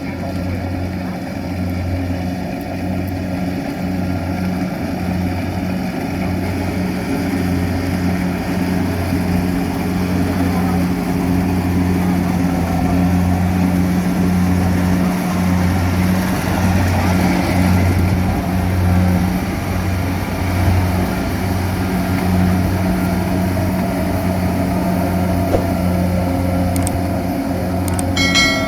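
Rice combine harvester's engine running steadily under load, a deep hum that pulses slightly. A brief high-pitched tone sounds near the end.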